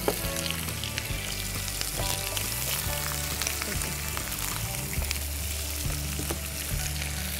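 Sliced onions, whole spices and ginger paste sizzling in hot oil in a non-stick frying pan, stirred with a wooden spatula; a steady crackle with fine pops throughout.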